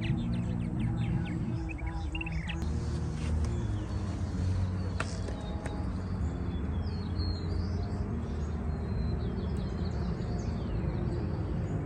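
Birds chirping, with short high calls in quick runs near the start and again in the second half, over a steady low drone.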